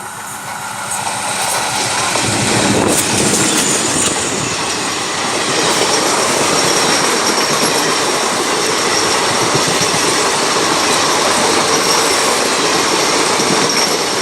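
A train running on the rails, growing louder over the first two seconds and then holding steady, with a thin high whine setting in about five seconds in.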